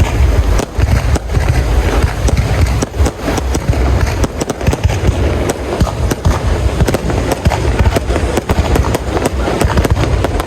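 Fireworks display going off: a dense run of sharp cracks over a continuous low rumble of booms.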